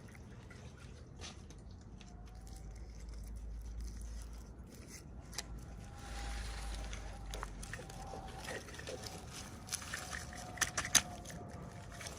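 Small toy packaging being handled: quiet rustling with scattered clicks, and a few sharper, louder clicks near the end.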